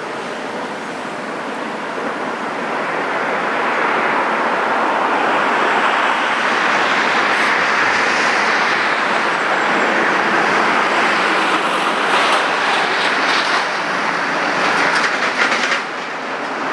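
A passing vehicle's rushing noise that swells over a few seconds and holds, then turns into a run of sharp clattering clicks near the end.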